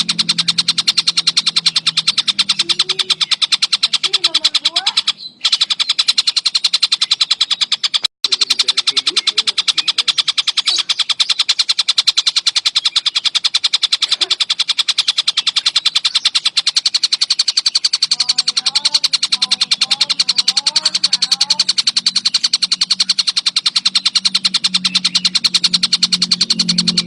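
Collared kingfisher (tengkek buto) calling in a fast, unbroken rattle of sharp, high notes. The sound cuts out briefly twice, about five and eight seconds in.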